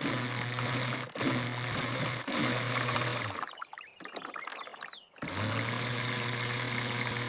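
A small engine running steadily with a low hum, cut off abruptly several times. About halfway through it drops out for nearly two seconds, leaving scattered light clicks and splashes, then comes back.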